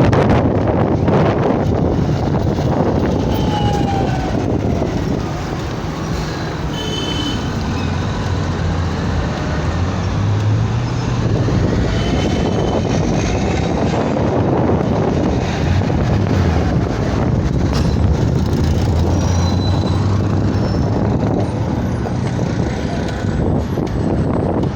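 Steady city road traffic with vehicle engines running close by, and wind rumbling on the microphone.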